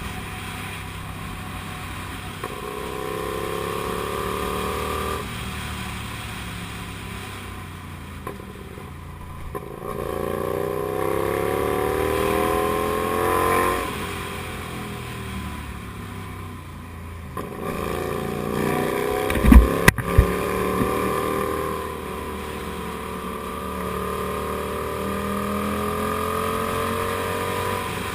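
Comet GTR250's 250 cc V-twin engine pulling a motorcycle along, the revs climbing and then dropping between gear changes several times over. A few sharp loud knocks come about two-thirds of the way through.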